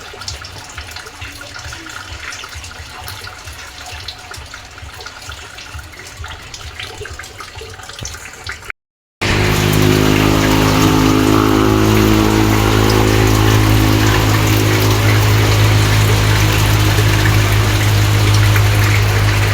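Running water with the light clatter of dishes being washed by hand. After a cut about nine seconds in, a much louder, steady, low hum with several even tones takes over.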